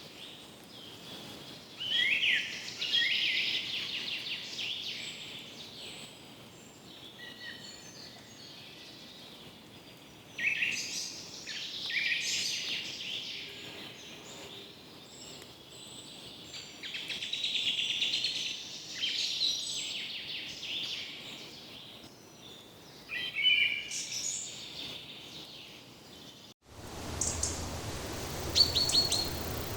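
Birds singing and calling in bursts every few seconds over a steady hiss of forest ambience. Near the end the background changes abruptly to a lower, louder rumble, with short, sharp, high chirps.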